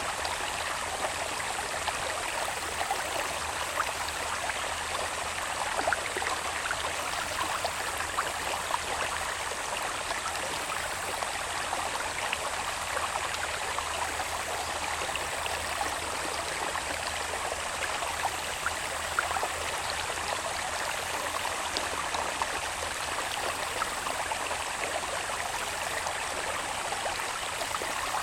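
A small irrigation channel babbling steadily over stones. Beneath it runs a thin, steady, high-pitched insect call.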